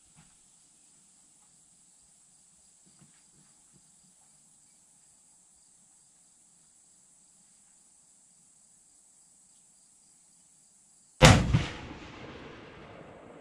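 A single high-powered rifle shot about eleven seconds in, its loud crack followed by a long echo dying away over the next two seconds.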